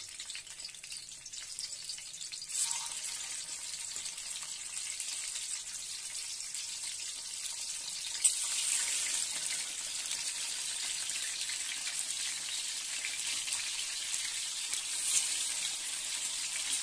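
Stuffed bitter gourds sizzling as they fry in hot oil. The sizzle steps up sharply about two and a half seconds in and again about eight seconds in as more gourds are laid into the oil.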